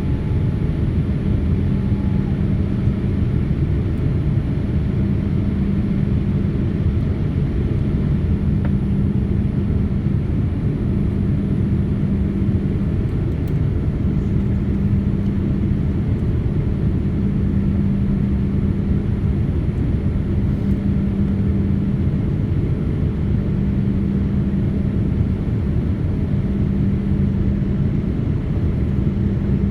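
Jet airliner cabin noise on the ground before takeoff: a steady low rumble from the engines and air system, with a hum that drops out briefly every few seconds.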